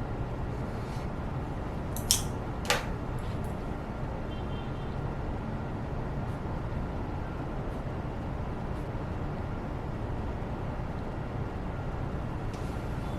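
Steady low room noise of someone studying at a desk, with two sharp clicks close together a little after two seconds in, like a pen or small object set down on the desk.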